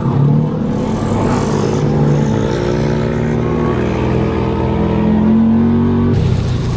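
Kawasaki Teryx 4 side-by-side's engine running under way, its pitch climbing slowly for several seconds, then dropping abruptly about six seconds in.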